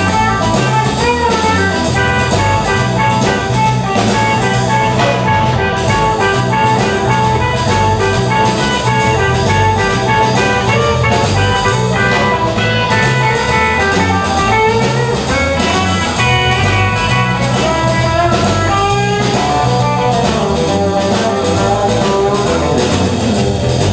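Live band playing an instrumental break in a blues-style rock-and-roll song: a drum kit keeps a steady beat under bass and guitar while a lead line carries the melody.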